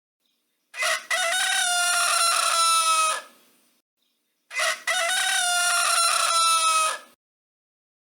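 Rooster crowing twice, each crow a long held call of about two and a half seconds that sags slightly in pitch at its end.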